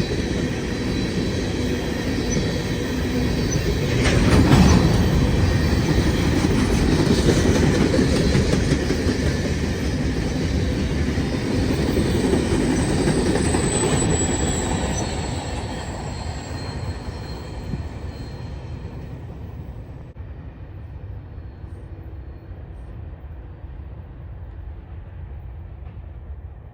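A train's cars rolling past on the track, with wheels clattering on the rail. A brief high wheel squeal comes about 14 seconds in, then the sound fades as the train moves away.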